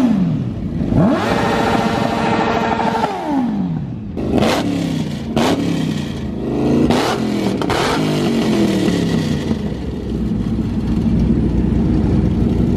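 Straight-piped Chevrolet Camaro ZL1's supercharged V8 being revved: the revs climb and are held high for about two seconds before dropping back, then come four sharp, quick blips of the throttle, and the engine settles back to idle.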